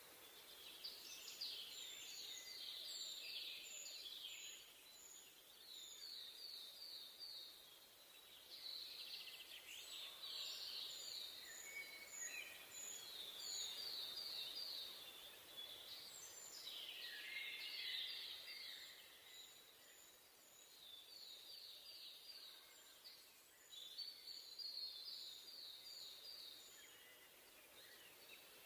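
Several songbirds singing in a forest: quick runs of short, high, repeated notes and higher chips, with fuller phrases every few seconds, all faint.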